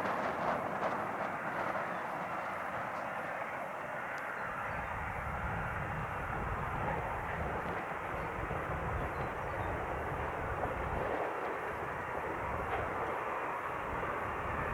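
Fixed-wing airplane engine noise, a steady rumble that grows somewhat stronger and deeper about four seconds in.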